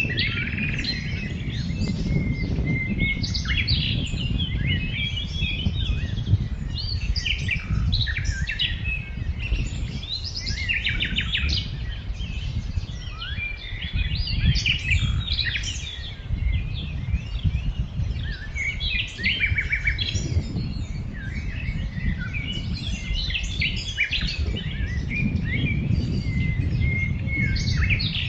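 Many small birds chirping and singing over one another without pause, with a steady low rumble underneath.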